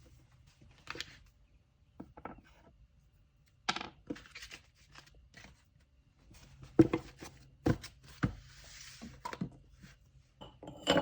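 Objects being handled on a table while packing: scattered knocks, clinks and thumps as items are picked up and set down, the loudest a few sharp thumps about seven to eight seconds in, with a brief rustle of paper just after.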